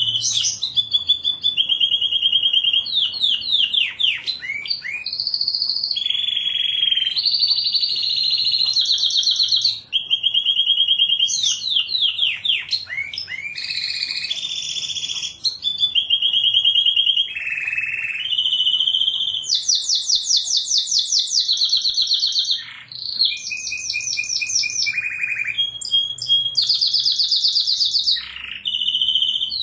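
Domestic canary singing without a break: a high song of fast trilled rolls, each a run of quickly repeated notes held for a second or two before switching to a different roll.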